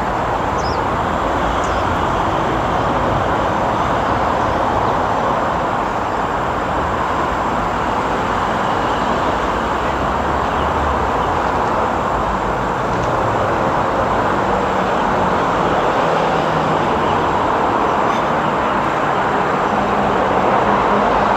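Steady roar of road traffic, an even wash of tyre and engine noise with a shifting low rumble.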